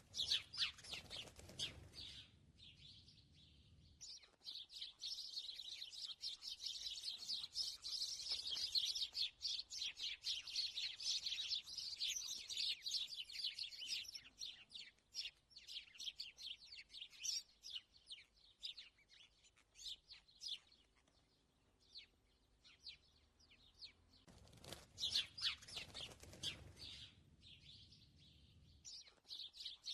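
Small songbirds chirping and twittering in quick, high calls, densest in the first half. There are two spells of low rushing noise, one at the start and one about 25 seconds in.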